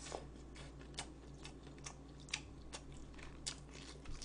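Faint, crisp clicks at an irregular pace of about two a second, over a low steady hum.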